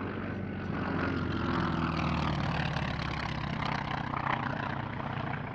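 Aircraft in a display flight, its engine drone a steady deep hum with a wash of noise above it.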